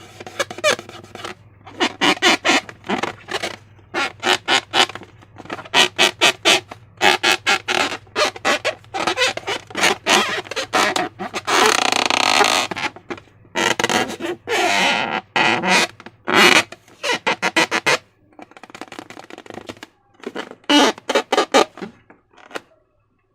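Slime squelching and crackling in quick bursts of small wet pops as it is squeezed and worked, making fart-like sounds. About halfway through there is a longer rasping stretch of trapped air forcing its way out.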